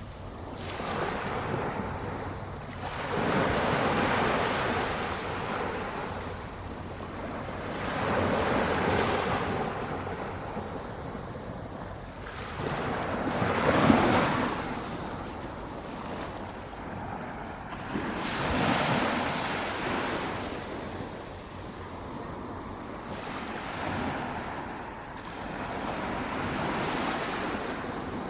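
Small ocean waves breaking gently on a sandy beach in a flat calm sea. Each wave comes as a rising and falling wash of surf, about one every four to five seconds, the loudest about halfway through.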